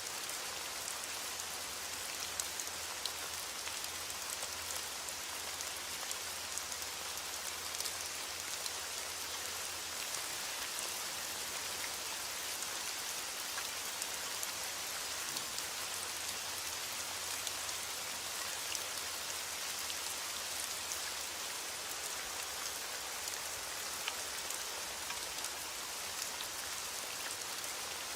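Steady rain falling, a dense hiss with many small drop ticks.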